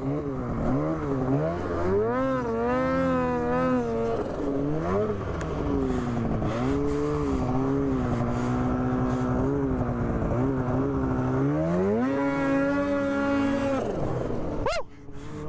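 Snowmobile engine revving up and down again and again under varying throttle, then held at high revs for about two seconds near the end before the throttle is chopped and the sound falls away.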